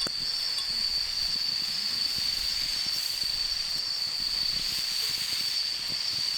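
Japanese bell crickets (suzumushi) singing in an unbroken high-pitched trill.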